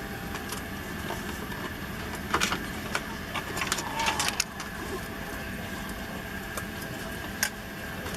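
Steady drone of a Boeing 767-300ER's cabin noise in flight, with a short run of clicks and clatter a couple of seconds in and one more sharp click near the end.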